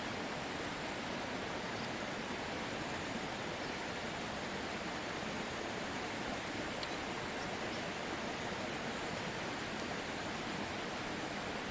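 Steady, even rushing noise with no change in level, spread from deep to high pitches.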